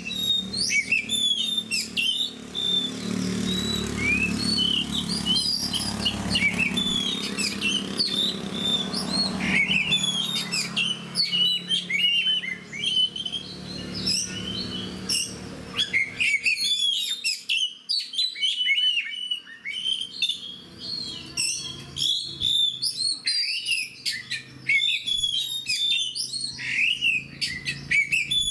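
Oriental magpie-robin (kacer) singing continuously, a rapid, varied stream of whistles and chirps. A low steady hum lies underneath for the first half and fades out about halfway through.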